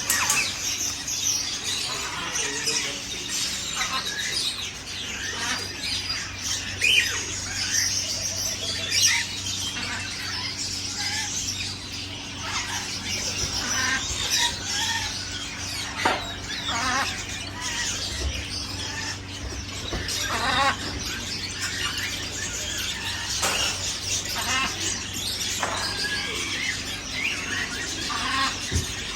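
Many caged birds at a bird market chirping, squealing and calling at once, a dense overlapping chatter of short high calls, over a steady low hum.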